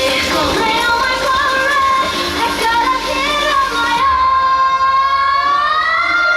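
Pop music with female singing. About four seconds in, the full backing thins out and a long held note glides upward near the end.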